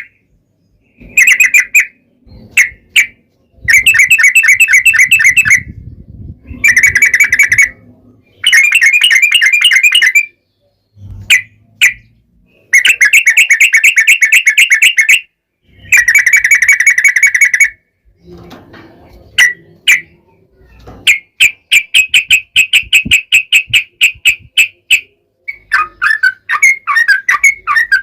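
Yellow-vented bulbul (trucukan) singing long, rapid trills. The loud phrases of quick repeated notes last one to two and a half seconds each and come again and again after short pauses, with a few short single notes in between.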